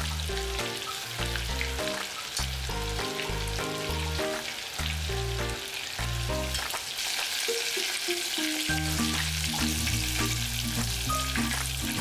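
Battered chicken pieces deep-frying in oil at a low temperature, a steady sizzle while chopsticks stir them, over background music.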